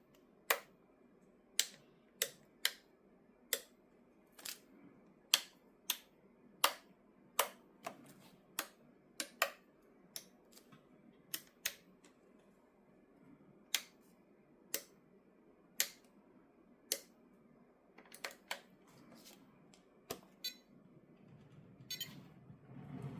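A series of sharp, single clicks at an uneven pace, roughly one a second, over a faint low hum. A louder, steadier low sound starts near the end.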